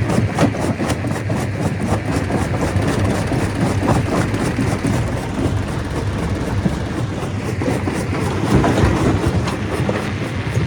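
Stone crusher running and crushing rock: a steady heavy rumble with dense, irregular clattering knocks of stone against stone and steel.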